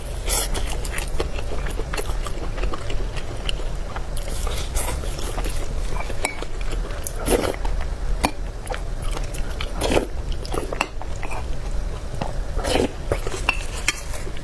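Close-miked eating of noodles: chewing and biting, with utensils clicking against the bowl, over a steady low hum.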